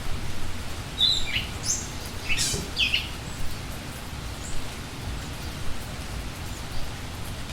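Steady rain falling, with a few short, high bird chirps in a quick cluster starting about a second in and fainter calls afterwards.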